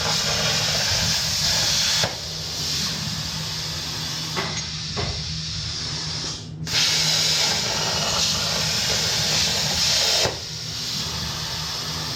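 CNC plasma cutting torch cutting sheet steel: a loud, steady hiss with a low hum underneath. It cuts out for a moment about six and a half seconds in, then resumes.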